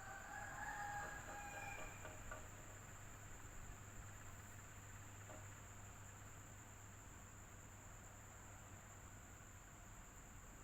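Electric fan running steadily: a low hum with a thin high whine over it. A few faint, brief tones come through in the first two seconds.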